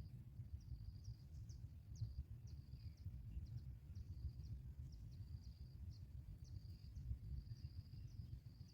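High, thin insect trill that comes and goes in short stretches, with brief high chirps over it, above a steady low rumble of background noise.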